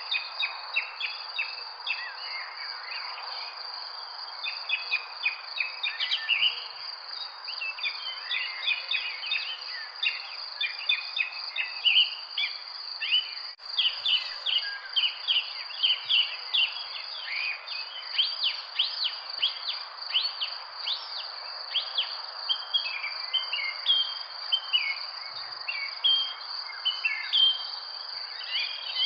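Many small birds chirping and calling in quick, overlapping bursts over a continuous high, steady insect trill.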